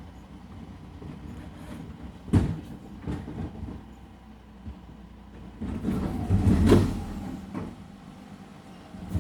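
Recycling garbage truck's engine running low and steady, with a sharp bang a couple of seconds in, a few knocks after it, and a longer clatter from the truck's bin-emptying work near the middle.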